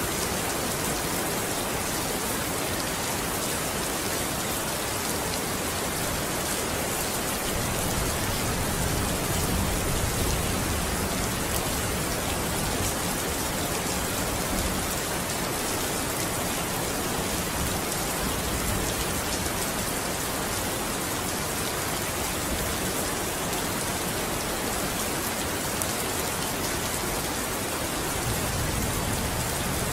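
Steady rain falling on a window, with a soft low rumble of distant thunder building about a third of the way in and again near the end.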